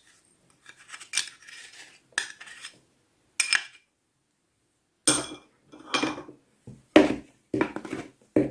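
A metal spoon clinking and scraping against a mixing bowl in a series of short, separate strokes, as ground spices are spooned into flour; the strokes grow heavier about five seconds in.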